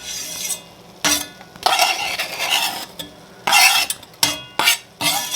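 A cooking utensil stirring and scraping chopped chicken, onion and garlic around in a pan, a series of short scrapes and clinks against the pan.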